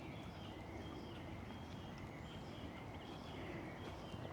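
Faint steady rush of a rain-swollen creek running, with short high bird chirps repeating over it.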